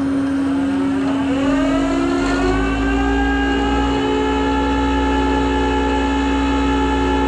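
Flatbed tow truck's hydraulic winch and engine running as the car is pulled up the bed. A mechanical whine rises in pitch about a second in, then holds steady over a constant low hum.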